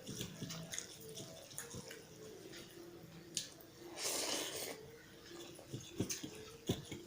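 Close-miked eating sounds of dal and rice eaten by hand: wet squelches and smacks with scattered mouth clicks, and a longer rush of noise about four seconds in.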